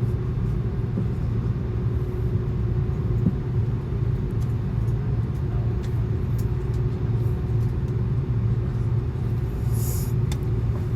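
Steady low rumble inside the cabin of an Airbus A330-200 airliner, with a constant hum over it. There are a few faint clicks and a short hiss about ten seconds in.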